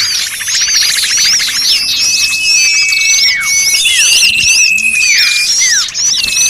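Bird-lure recording of many small birds calling at once in agitation: long level whistled notes, falling slurred calls, quick repeated high chips and a fast chattering trill in the first second or so.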